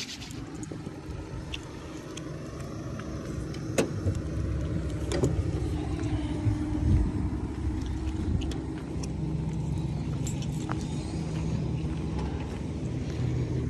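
A car's engine running close by with a steady low hum, with a couple of sharp knocks from a van door being shut about four and five seconds in, and footsteps on tarmac.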